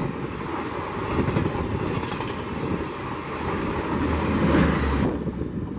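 Express train passenger coaches passing close by at speed: a steady rumble and rush of wheels on rails. It is loudest about four and a half seconds in, then drops away sharply near the end.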